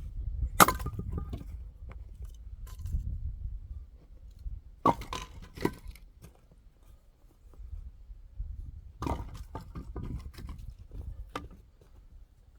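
Axe blows splitting firewood by hand: about five sharp chopping strikes a few seconds apart, the first the loudest. The wood is knotty and splits hard.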